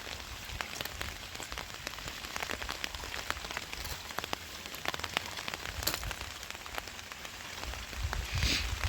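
Rain falling, with many separate drops striking a surface as scattered sharp ticks over a steady hiss. A short louder hiss comes near the end.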